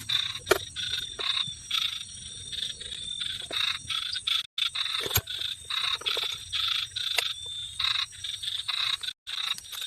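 A chorus of animal calls: short calls repeated a few times a second over a steady high-pitched trill, breaking off for an instant twice.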